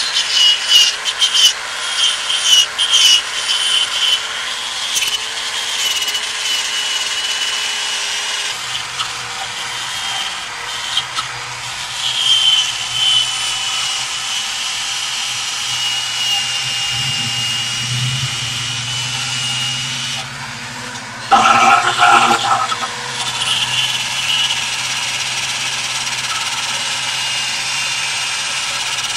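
Rust being scraped off metal brake parts: repeated rubbing, scraping strokes, with a steady low hum joining about eight seconds in.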